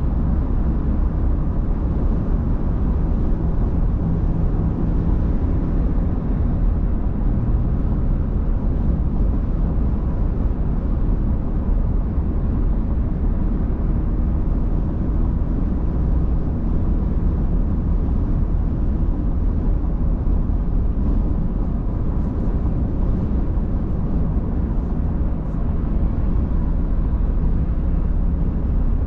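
A car being driven: steady low rumble of road and engine noise, with no change throughout.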